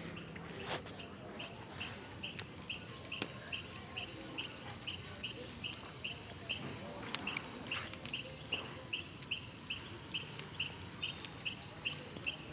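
A small animal calling with a short high chirp, repeated evenly about two to three times a second over a steady high whine. Occasional sharp pops from the bonfire come through now and then.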